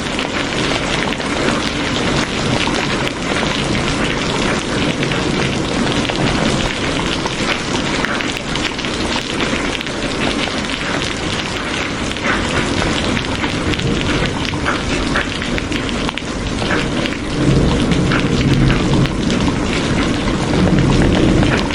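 Steady heavy rain hissing, with many small drop ticks. Low rumbles of thunder swell up about two-thirds of the way through and again near the end.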